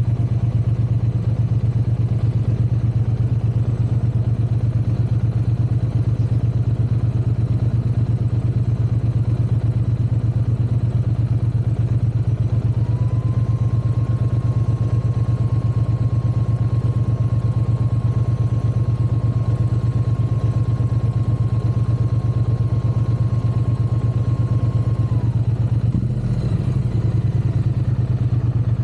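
Triumph parallel-twin motorcycle engine running steadily at an even speed, with no revving. A thin, steady high tone sounds over it through the middle for about twelve seconds.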